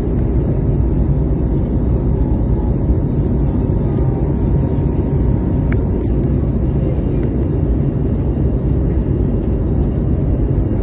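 Steady airliner cabin noise in flight: the low, even rumble of the engines and airflow heard from inside the passenger cabin.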